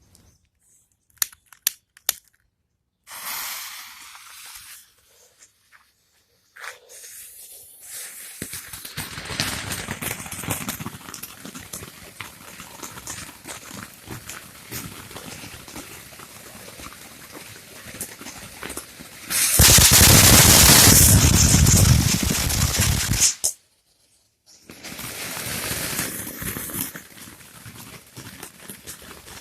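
Fiery Frogs firework burning with a crackling hiss. It starts with a few sharp clicks and a short hiss, then builds steadily. About two-thirds through it becomes very loud for a few seconds, cuts off suddenly, and then crackles on more quietly.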